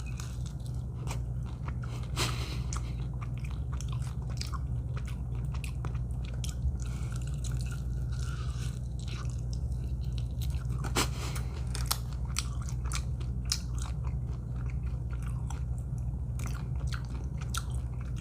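A person biting into and chewing a crispy fried buffalo chicken wing close to the microphone, with scattered crunches and mouth clicks, over a steady low hum.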